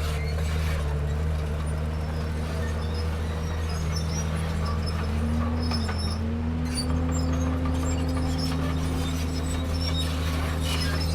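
Komatsu D31P crawler bulldozer's diesel engine running steadily under work. A little past halfway, its pitch dips briefly and then rises and holds higher, with light scattered clinks over it.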